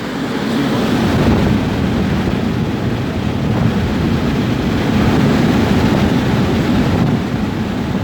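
Air conditioner and heat unit's fan blowing air: a loud, steady rushing whoosh with buffeting on the microphone, growing louder about a second in.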